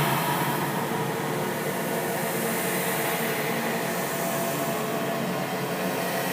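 A scary sound-effect drone: a steady, dense wash of noise with faint held tones, no separate knocks or calls.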